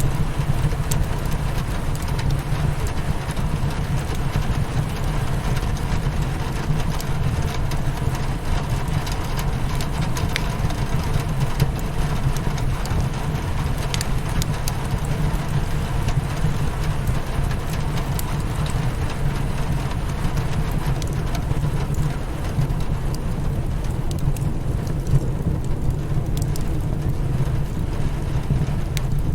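Rain hitting a window mixed with a crackling fireplace: a steady low, rumbling rain hiss with scattered small pops and crackles.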